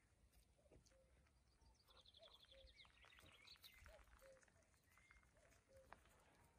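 Near silence with faint bird calls: a rapid high trill about two seconds in, and soft short low notes repeating roughly once a second.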